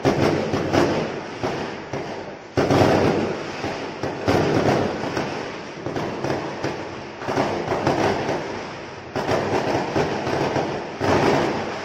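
Many fireworks going off at once: a dense, continuous crackle of bursts with a heavier bang every couple of seconds.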